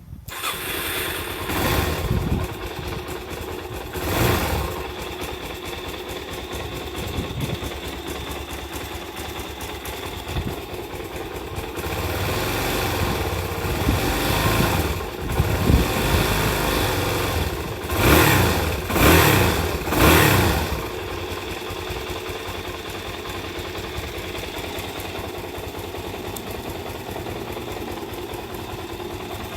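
Suzuki DR-Z400S single-cylinder four-stroke engine running through its stock muffler, blipped about two and four seconds in, revved several times between about fourteen and twenty-one seconds, then settling to a steady idle.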